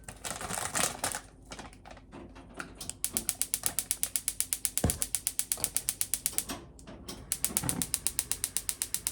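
Rapid, even mechanical clicking like a ratchet or a turning dial, about nine clicks a second, in two runs of a few seconds each with a short break between. Irregular handling noise comes before the clicks.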